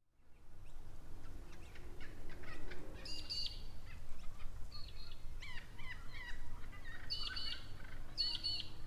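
Birds calling and chirping, with one short, high, twisting call repeated several times in the second half, over a low background rumble.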